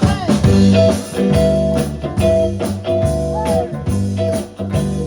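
Live band playing an instrumental intro: a lead line of held notes, one bending in pitch about three and a half seconds in, over bass and regular drum hits.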